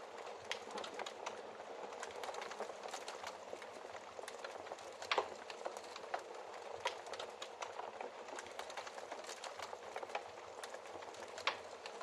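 Wood fire crackling in a fireplace: a steady hiss of burning with frequent small crackles and a couple of louder pops, one about five seconds in and one near the end.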